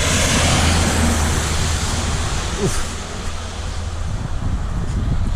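A vehicle's low engine hum over a broad rushing hiss of water on a flooded road. The hiss is strongest in the first second, and the hum fades about three seconds in.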